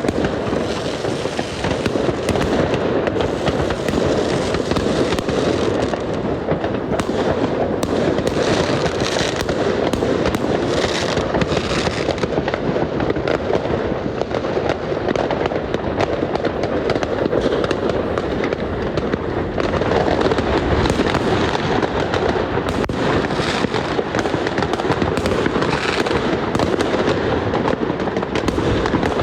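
New Year's fireworks and firecrackers going off all around in a dense, unbroken barrage of bangs and crackling.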